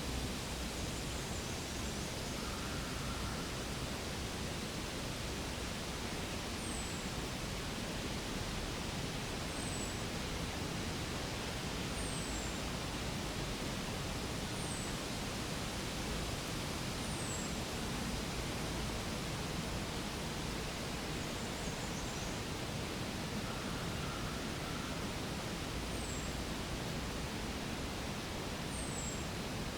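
Steady hiss-like outdoor background noise, with faint short high chirps sliding downward, repeating every two to three seconds.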